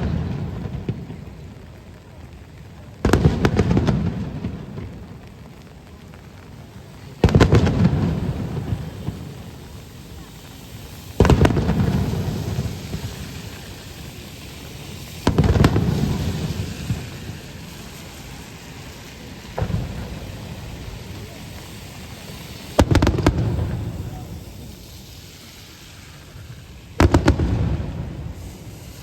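Fireworks shells bursting overhead, seven heavy booms about every four seconds, each followed by a rumbling echo that fades over a second or two. A steady hiss of rain runs between the bursts.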